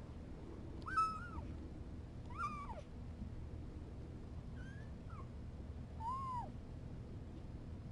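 Kitten mewing: four short, high calls a second or two apart, each rising and then falling in pitch.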